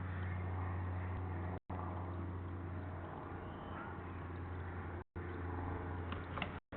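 Steady low mechanical hum with background noise, dropping out to silence three times for a split second, with a few faint clicks near the end.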